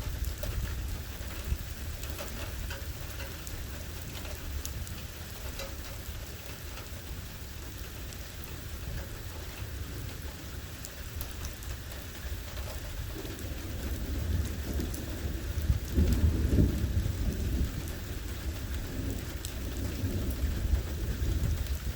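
Thunderstorm: steady rain falling with scattered drop impacts and a continuous low rumble of thunder. The thunder swells louder about two-thirds of the way through, then eases.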